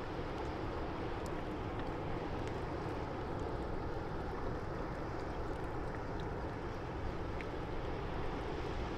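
Steady river-water ambience at a stone breakwater: water washing against the stones under a continuous low rumble, with a few faint short high ticks.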